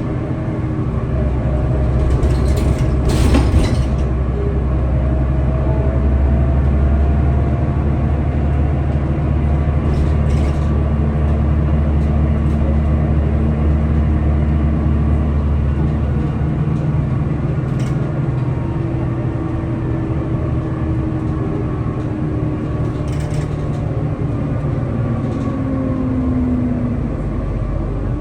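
Scania L94UB bus's diesel engine running under way, a steady low drone with thin whining tones that slowly rise in pitch as it gathers speed. A few short rattles come through, the loudest about three seconds in.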